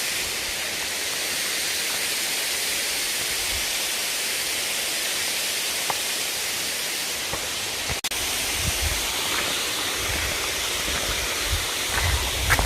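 Steady rush of falling water from a waterfall. About eight seconds in the sound briefly cuts out, and after that uneven low bumps on the microphone come and go.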